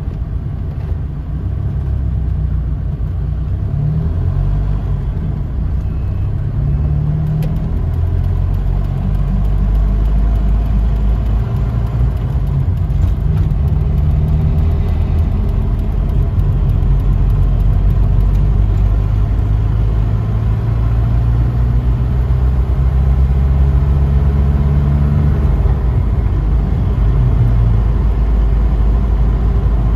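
Car engine and road noise heard from inside the taxi's cabin. The engine note rises and falls in pitch as the car speeds up, then runs more steadily, growing slowly louder.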